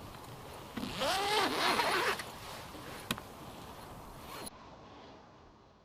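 A zipper pulled shut in one rasping pull about a second in, lasting about a second, then a single sharp click. The sound cuts off suddenly near the end, leaving a faint hiss that fades out.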